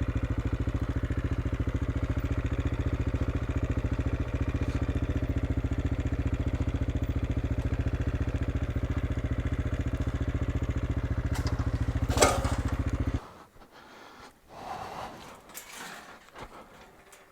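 Single-cylinder motorcycle engine of an AJP PR7 idling with a steady, even pulse, then cutting off abruptly about thirteen seconds in, after which only a few faint knocks and clicks remain.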